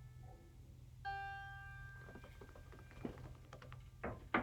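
A single note plucked on a small lyre about a second in, ringing and slowly fading, after the last strings from the song die away. Soft clicks and rustles follow, with a sharper knock near the end.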